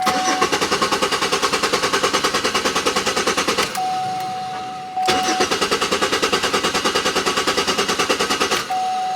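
Car's starter engaged twice with the key, each time a rapid clatter of about nine pulses a second lasting three to four seconds, and the engine does not start; the owner blames a failed fuel pump. Between the two tries and after them a steady single-tone warning chime sounds.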